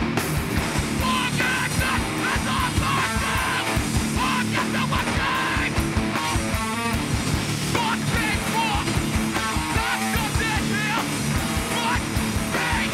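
A hardcore punk band playing live at full volume: distorted electric guitars and fast drums, with shouted vocals over the top from about a second in.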